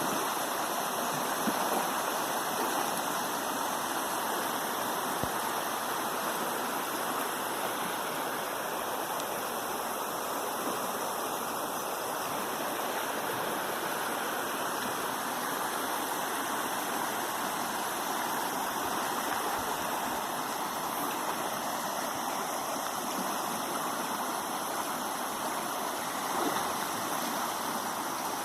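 Piabanha River swollen after rain, its water rushing in a steady, unbroken roar.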